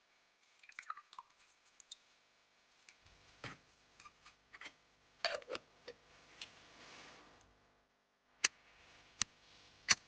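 Irregular light clicks and knocks, like small objects being handled, ending with three sharp clicks a little under a second apart.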